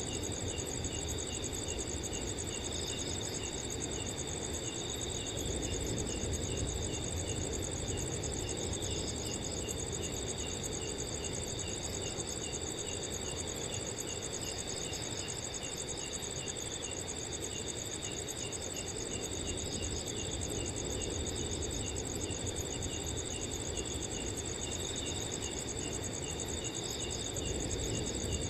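Several crickets chirping together at night: a continuous high, fast-pulsing trill over a slower, regular chirp repeating about three times a second. A steady low rush of wind runs underneath.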